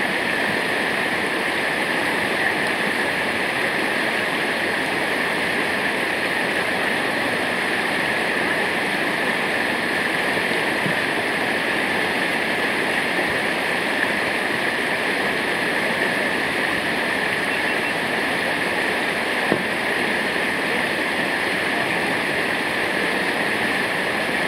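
Waterfall rushing, a steady, even roar of falling water with no change throughout.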